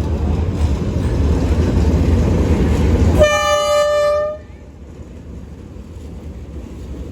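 Train running with a steady low rumble, then a single locomotive horn blast about three seconds in that lasts about a second. After the horn, the rumble drops to a much quieter level.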